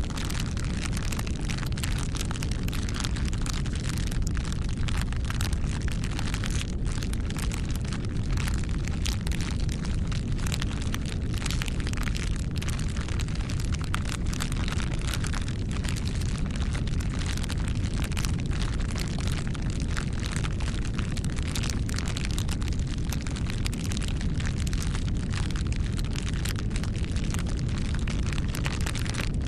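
Campfire burning: wood crackling and popping irregularly over a steady low rumble of the flames.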